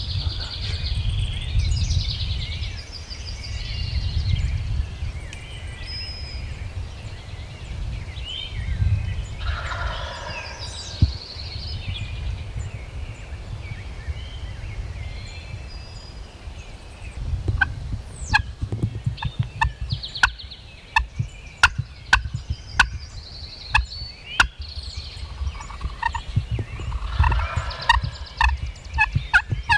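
Wild turkey gobbling, about ten seconds in and again near the end, over high songbird calls. From about two-thirds of the way through comes a quick run of short, sharp notes, with a low rumble underneath throughout.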